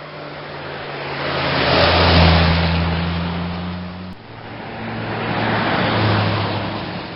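Car engine running with a steady low drone. It grows louder to a peak about two seconds in, drops suddenly about four seconds in, then swells again and fades near the end.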